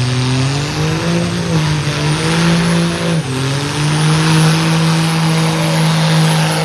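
Modified truck engine revved up and held at high rpm, with a brief dip in revs about three seconds in, over a heavy rushing noise of tires spinning in a burnout.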